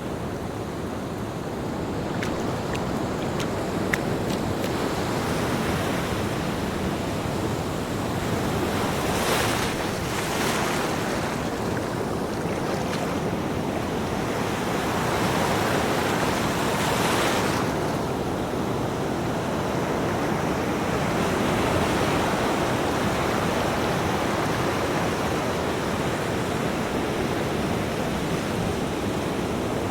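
Ocean surf: waves breaking and washing in a continuous rushing noise, with louder hissing washes of breaking water about nine to eleven seconds in and again around seventeen seconds.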